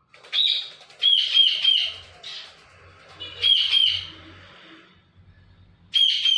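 Pet green parrot giving loud, shrill calls, several in quick succession in a few separate runs, with a pause before a last call near the end.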